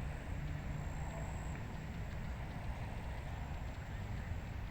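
Wind blowing steadily across an open rice paddy, a continuous rushing hiss with a low rumble underneath.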